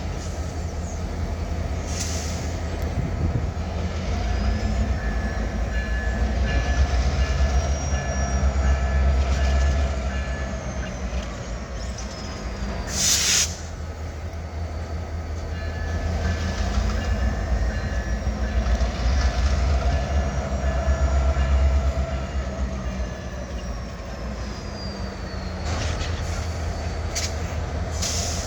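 EMD diesel road-switcher locomotives (GP38-2s and a GP40-2LW) working in a yard. The engine rumble swells and eases twice as they throttle up and back down to move cars. About halfway through there is a brief loud burst of noise.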